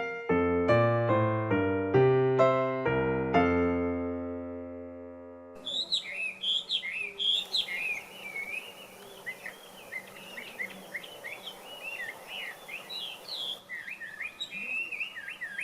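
Piano music for the first few seconds, its last chord fading away. From about five seconds in, a Chinese hwamei sings a rapid, unbroken run of varied whistled phrases.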